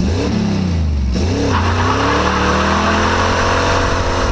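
Jeep Wrangler YJ's engine revving up and down, then accelerating with its pitch climbing steadily and a loud hiss of tyre and road noise.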